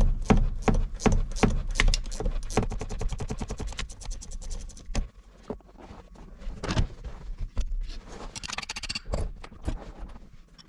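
Tools unbolting the shift tower from an Eaton Fuller truck transmission: a quick regular run of sharp metal clicks, about four a second, for the first five seconds or so, then scattered knocks and scraping.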